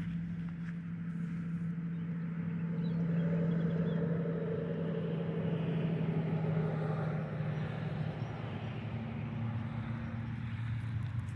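Steady low motor hum that swells with a broader rushing noise in the middle and steps slightly higher in pitch near the end.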